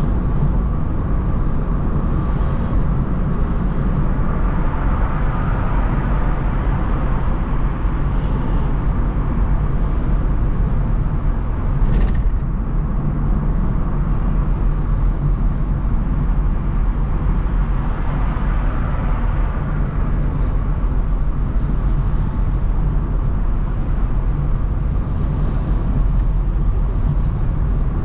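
Steady road and engine rumble of a car driving through city traffic, with a single brief knock about twelve seconds in.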